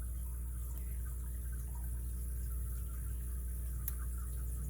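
Faint scattered ticking and scraping of a lock pick working the pins inside an all-brass padlock, with one sharper click about four seconds in, over a steady low hum.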